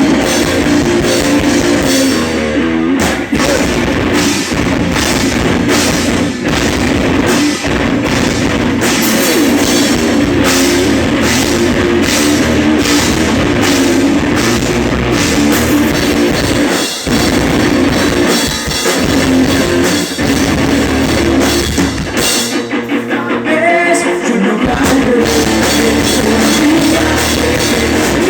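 Pop-punk band playing live: drum kit and distorted electric guitars played hard at a steady pulse. The bass and low end drop out briefly about three quarters of the way through, then the full band comes back in.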